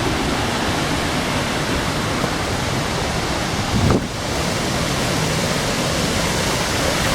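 Steady rushing of a waterfall and river, an even roar with no let-up. A brief low thump sounds just before four seconds in.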